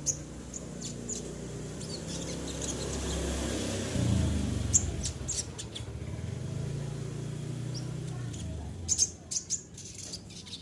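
Short, sharp chirps from a sogon songbird, scattered singly and then in a quick cluster near the end, over a steady low vehicle engine hum that swells around the middle.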